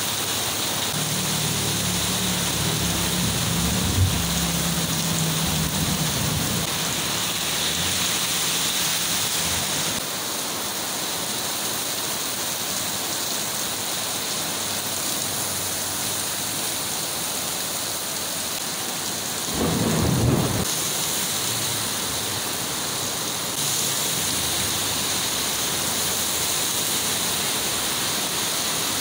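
Heavy rain falling on a street as a steady hiss. A motorcycle tricycle's engine hums past in the first several seconds, and about twenty seconds in there is a brief, loud low rumble.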